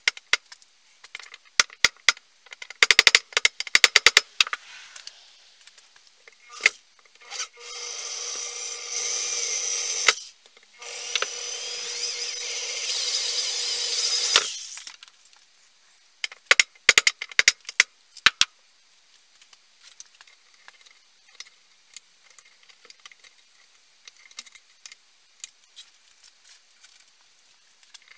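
Workshop tool sounds: clicks and taps of handling parts, then a small power tool running twice for a few seconds each, with a short stop between, followed by more scattered clicks.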